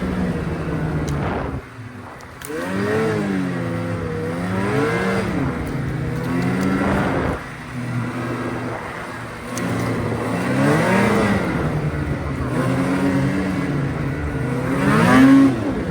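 Vehicle engine revving over and over, its pitch climbing and falling every second or two, with short let-offs about two seconds in and again about halfway through.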